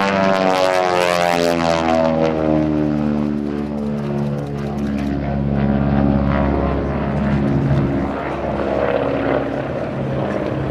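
Beech 18's twin Pratt & Whitney R-985 radial engines running as the plane flies past, the pitch falling steeply in the first two seconds as it goes by and then dropping slowly as it draws away.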